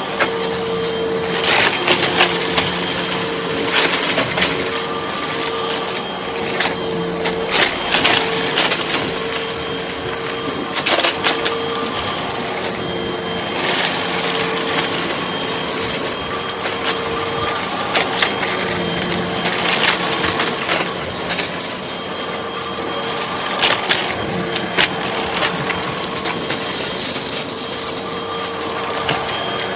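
Hoover vacuum cleaner running steadily with a held motor whine, sucking up light crunchy debris that crackles and crunches irregularly as pieces rattle through.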